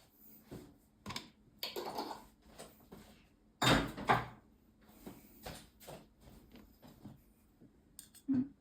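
Irregular knocks and clicks of tableware and food being handled while plating, with one louder clatter about four seconds in.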